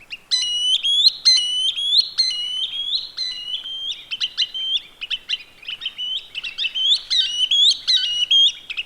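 Green sandpiper calling: a long run of short, sharp, rising whistled notes, spaced out at first, then coming faster in tight clusters in the second half.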